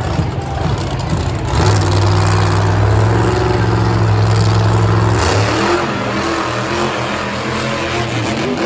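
Monster truck's supercharged big-block V8 running hard at high revs. It is loudest from about a second and a half in to about five seconds, then drops back a little and wavers.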